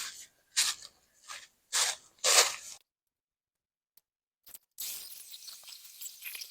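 Dry brush and leaves crunching and tearing, five or six loud crunches in the first three seconds, then a steady rustling hiss with small crackles after a short silence.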